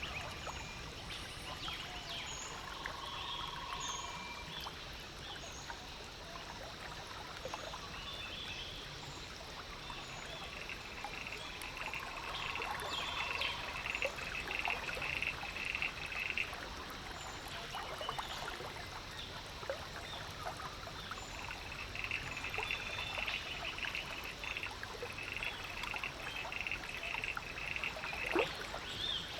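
Frogs trilling in two long stretches over a steady trickle of water, with short high bird chirps scattered through.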